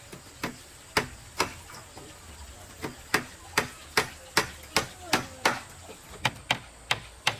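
A hand tool striking wood in sharp, regular blows: a few separate strikes at first, then a steady run of about two to three blows a second from about three seconds in.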